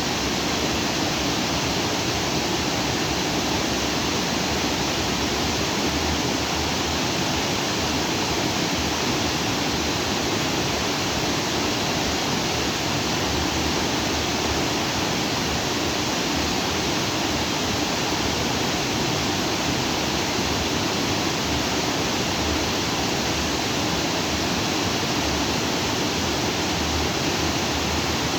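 Stream water rushing steadily over and between rocks, a constant full-bodied rush.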